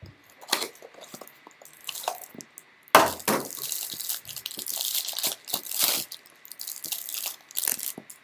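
Trading cards being handled, with light clicks and flicks. About three seconds in comes a longer stretch of crinkling and tearing as the packaging of a hanger box of baseball cards is torn open.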